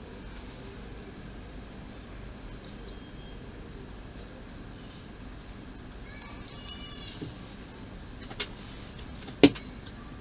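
Small birds chirping and twittering, with a quick trill a little past halfway. A single sharp knock about nine seconds in.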